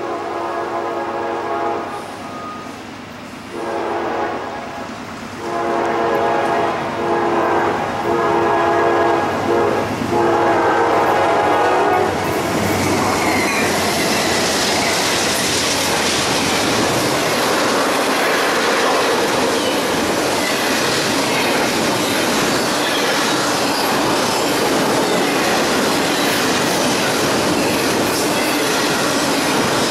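Norfolk Southern freight train's locomotive air horn sounding several blasts, the last one long, as the train approaches; about twelve seconds in the locomotives arrive and a double-stack intermodal train rolls past close by, a steady loud rumble and rush of wheels on rail.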